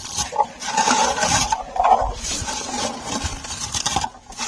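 Lingonberry shrubs being stripped of their berries: several scraping, rustling strokes in a row through the low, leafy plants.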